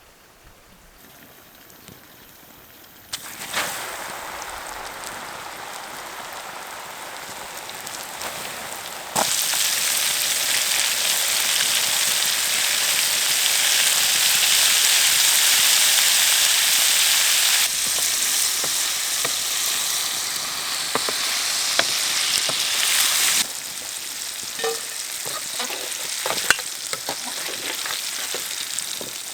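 Food frying in hot oil, a dense sizzle that starts about three seconds in and jumps much louder about nine seconds in, then steps down twice. Scattered taps of a utensil in the pan near the end.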